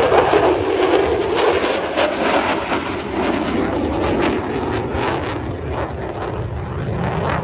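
Aircraft engine noise from a plane flying by, a loud rushing drone with crackle that slowly fades.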